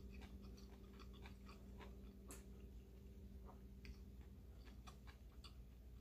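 Faint chewing of a mouthful of pancit noodles, with small scattered mouth clicks.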